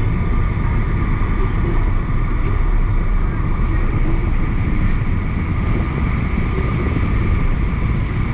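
Steady road and tyre noise inside a moving car driving through rain, with the deep low rumble of the car in motion.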